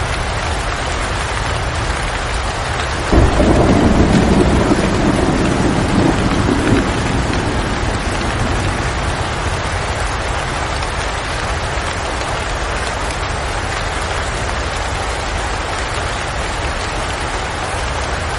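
Steady rain, with a sudden thunderclap about three seconds in that rumbles for a few seconds and fades away.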